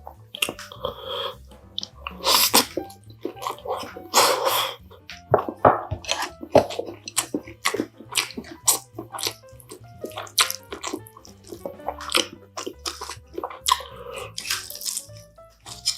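Close-up eating sounds: crunchy bites and chewing of a crispy pan-fried chive pancake, wet slurps of doenjang stew and clinks of a spoon against the bowl, with the loudest slurps about two and a half and four and a half seconds in. Quiet background music plays underneath.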